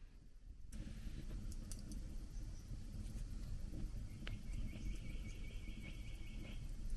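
An insect's high, rapid, even trill, lasting about two seconds from just past the middle, over a steady low rumble with a few scattered clicks.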